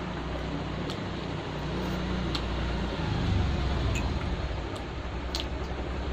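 Eating sounds of toasted bread and chicken stew, chewing with a few sharp clicks or clinks, over a steady background hum.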